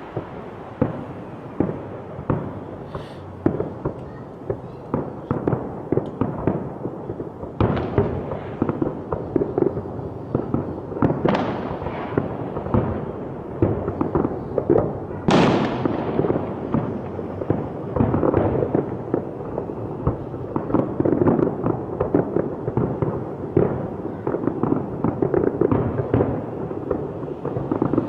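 Fireworks going off in quick succession: a steady run of bangs and crackles, with a couple of longer hissing streaks about a third and halfway through.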